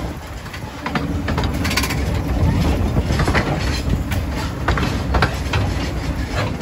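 Train running along the track: a steady low rumble with irregular sharp clicks and knocks from the wheels on the rails.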